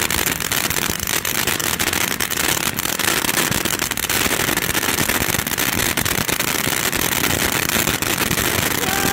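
A 500-gram Summer Santa ground fountain firework burning: a steady spraying hiss, dense with rapid crackling pops.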